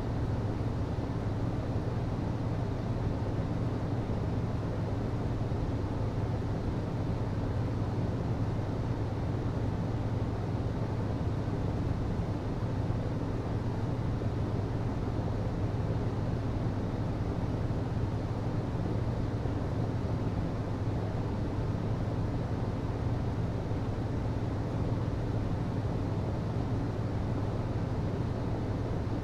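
HVAC system running: a steady low hum with an even rush of air over it.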